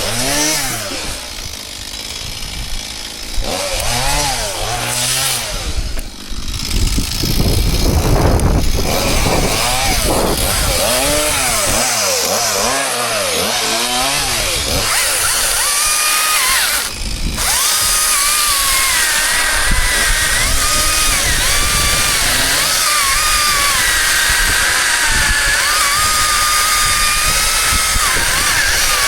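Two-stroke chainsaw revving up and down again and again, then held at high revs through the second half, wavering a little as it works.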